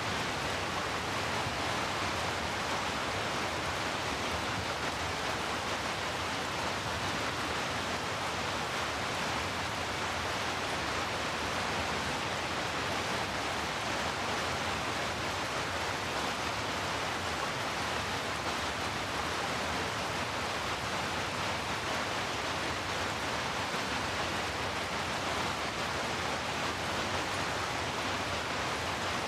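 Steady rain, an even unbroken hiss with no separate drops or thunder.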